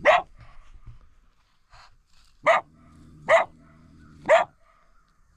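Coyote caught by the paw in a foothold trap, barking: four short, sharp barks, the last three about a second apart.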